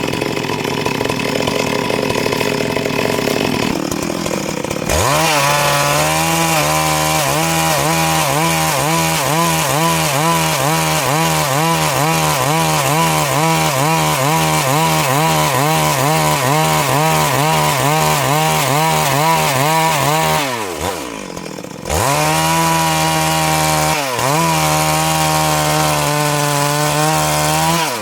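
Stihl MS 382 chainsaw running at high revs while cutting Siris wood along its length into boards, its pitch wavering up and down in an even rhythm as the chain works through the cut. About twenty seconds in, the revs fall away briefly, then it goes back to full throttle, with short dips near the end.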